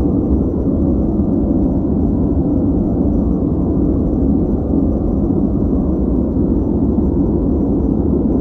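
Steady, unchanging noise track played for focus, deep and muffled like a low rumble, with little high hiss.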